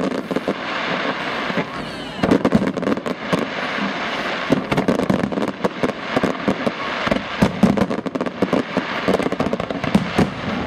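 Fireworks display: a dense, continuous volley of sharp bangs and crackling from shells and low-level effects fired in rapid succession, many reports a second.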